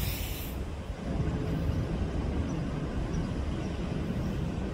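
Metro-North M8 electric multiple-unit commuter train running past, a steady low rumble of wheels on rail. A brief hiss cuts off about half a second in.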